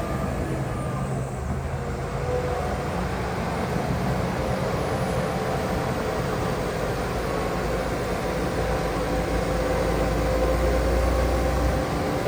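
Heavy diesel earthmoving machinery running steadily at a land fill. A deep engine rumble builds louder in the last few seconds, then eases off just before the end.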